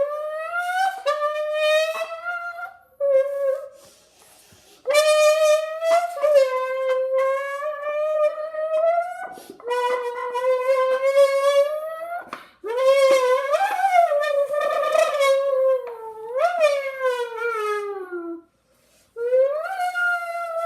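A kid's voice hummed into a can to imitate a Lamborghini engine. The pitch climbs, drops back sharply like a gear change and climbs again, in several runs with short breaks, the last run sliding down and fading.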